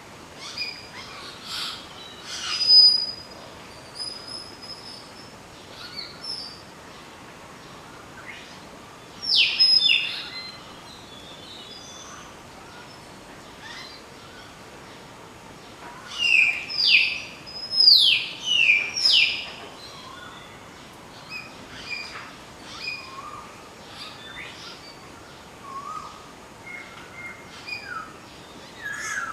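Hill myna and Asian koel calling. Loud downward-sweeping whistles come in a pair and later in a run of four, among scattered shorter whistles and chirps.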